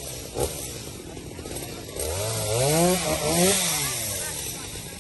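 Two-stroke chainsaw idling, then revved hard about two seconds in, its pitch climbing, peaking twice and dropping back to idle. A short sharp knock comes just under half a second in.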